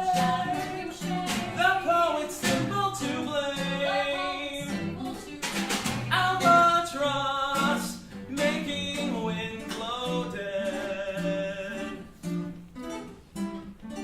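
Live music: voices singing with instrumental accompaniment and percussion strikes.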